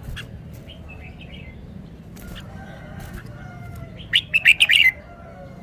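Red-whiskered bulbul singing: a few faint notes, then a loud, quick phrase of short clear notes a little before the end.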